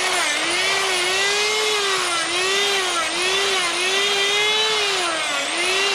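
Electric die grinder with a carving burr running at high speed, its whine dipping in pitch again and again as the burr bites into the wood and recovering as it lifts off.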